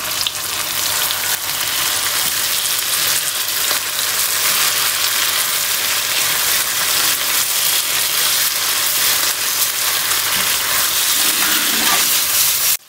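Potato and cauliflower frying in oil and masala in a non-stick pan on a gas hob: a steady sizzle, with a silicone spatula stirring the vegetables at times. The sizzle cuts off suddenly near the end.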